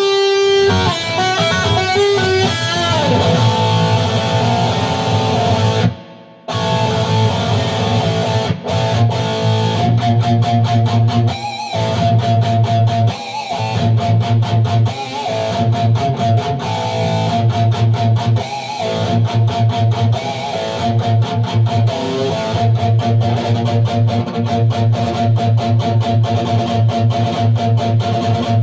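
Electric guitar played with a pick in fast, rapidly repeated picked notes over a steady low pulse, with a short break about six seconds in.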